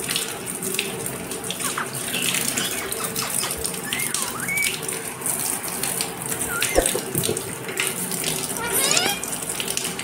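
Short bird chirps and whistled notes that slide up and down, with a quick run of rising notes near the end. Under them is a steady rushing hiss, like running water.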